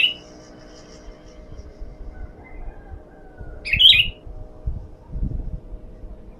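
Sooty-headed bulbul (kutilang) giving two short, loud calls, one at the very start and another about four seconds in.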